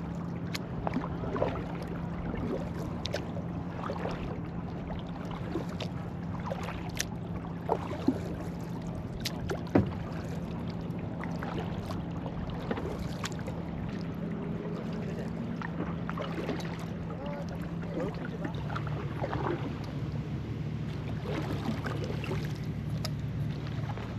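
Kayak on the move across calm water: scattered small splashes, drips and light knocks, over a steady low hum that shifts pitch about three-quarters of the way through.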